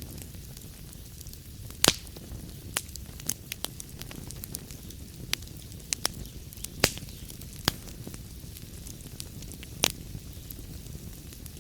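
Fire burning in a fireplace, crackling: a steady low rumble with sharp pops at uneven intervals, a few of them louder than the rest.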